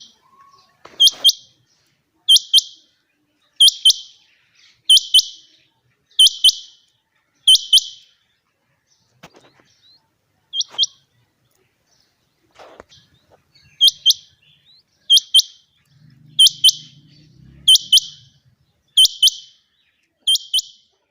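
Female quail calling: a short, high, sharp double note repeated about every second and a half, six times, then a single call after a pause, then six more.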